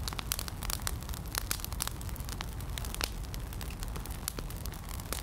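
Campfire burning, the wood crackling and popping in frequent irregular snaps over a low steady rumble.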